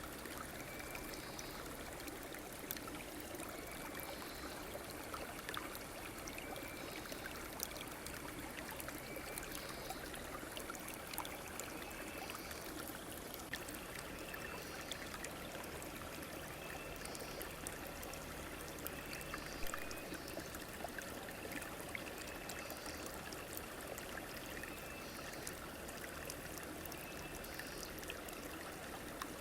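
A river or stream flowing steadily, with faint short high-pitched calls repeating every two to three seconds.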